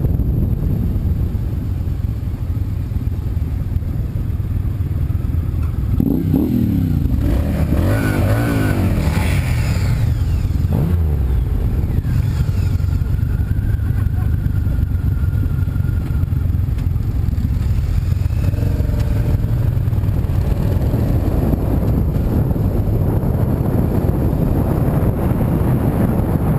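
Steady road noise of a car being driven: engine and tyre rumble. From about six to eleven seconds in, a passing vehicle's sound sweeps up and down in pitch over it.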